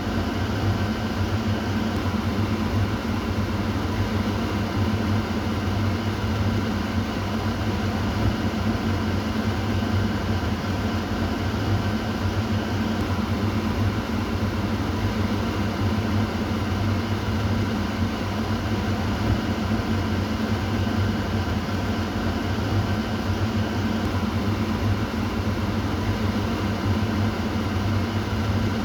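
Kitchen exhaust fan running steadily: a constant motor hum with a low drone and a hum a little higher, under an even whoosh of moving air.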